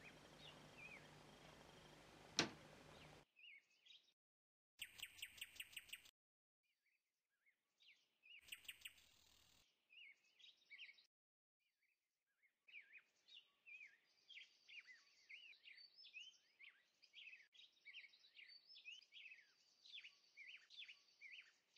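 Faint songbirds chirping: two short trilled bursts in the first half, then busy twittering through the second half. A single light click sounds near the start.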